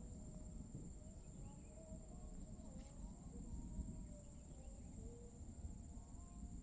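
Insects calling in one steady, high-pitched trill, with faint wavering lower calls and a low rumble beneath.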